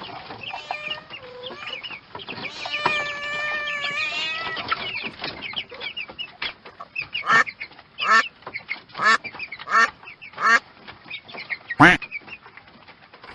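A flock of farmyard poultry calling. Many overlapping calls come first, then a run of five loud, evenly spaced calls in the second half and one more loud call near the end.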